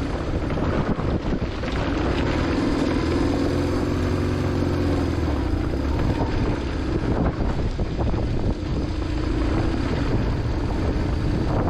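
Motorcycle engine running under way, with wind rushing over the microphone. The engine pitch wavers slightly as the throttle changes.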